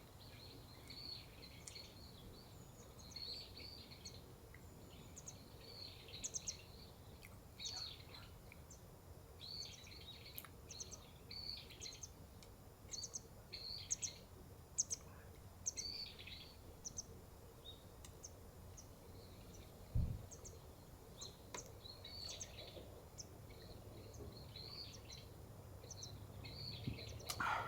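Small birds chirping in clusters of short, high calls, faint against a low background hum, with one dull thump about two-thirds of the way through.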